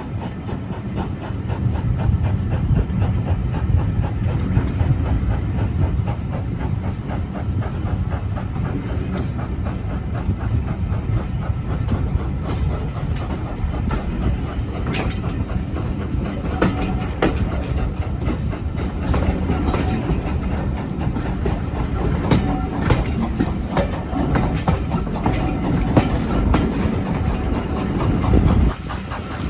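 Train running on the Severn Valley Railway: a steady heavy rumble with the clickety-clack of wheels over the rails. The sound drops suddenly about a second before the end.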